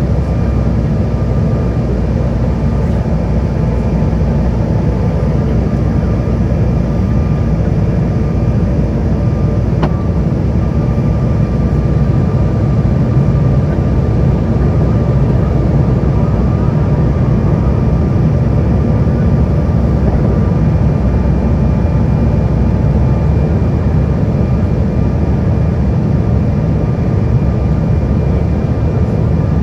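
Steady low rumble of a jet airliner's engines and airflow heard from inside the cabin, with faint steady engine tones over it.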